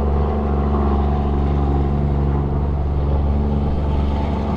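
Heavy dump truck's diesel engine running steadily under load, a low, even drone.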